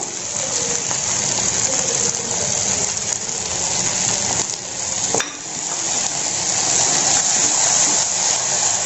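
Onions, tomatoes and mustard paste sizzling steadily in oil in a kadai, with a wooden spatula stirring and scraping through them. One sharp knock sounds a little past halfway.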